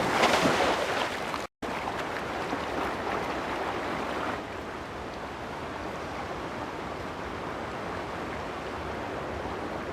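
Scuffling clatter for about a second and a half, then after a brief dropout a steady rushing noise, slightly louder for the first few seconds and then even.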